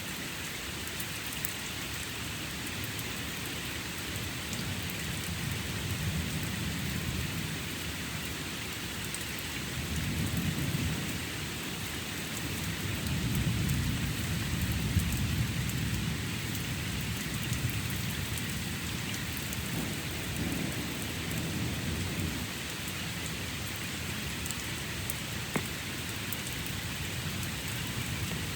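Steady rain hissing and pattering, with rolls of thunder rumbling low several times, the longest and loudest at around 13 to 16 seconds in.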